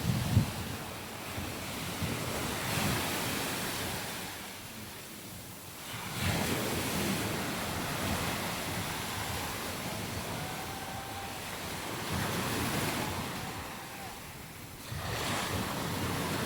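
Sea waves breaking and washing up the beach, swelling and fading every few seconds, with wind buffeting the microphone.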